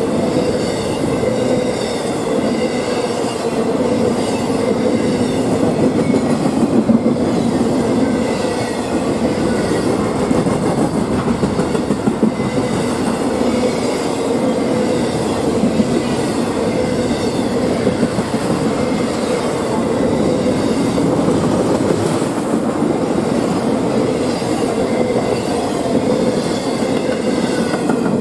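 Norfolk Southern intermodal freight train passing at speed, with double-stack container well cars: a steady loud noise of steel wheels rolling on rail, with faint high-pitched wheel squeal over it.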